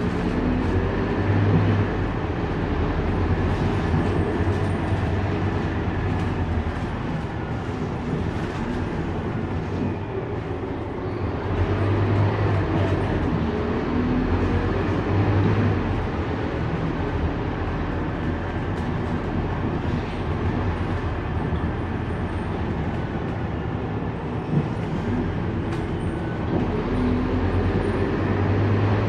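Scania K230UB city bus running, a steady diesel drone and road rumble whose engine note swells during stretches of pulling, about a second in, from about 12 to 16 seconds, and near the end.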